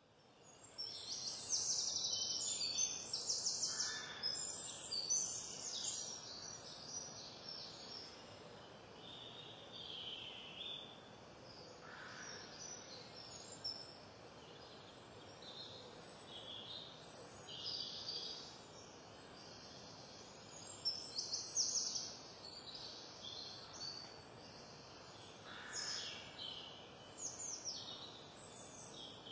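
Birds chirping and calling, in scattered groups of quick high notes and trills over a faint outdoor background, busiest in the first few seconds and again about two-thirds of the way through.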